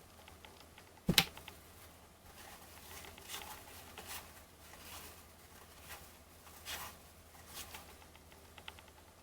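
1989 Fleer baseball cards being handled and flipped through, with faint, short swishes of card stock sliding against card stock every second or so. There is one sharp knock about a second in.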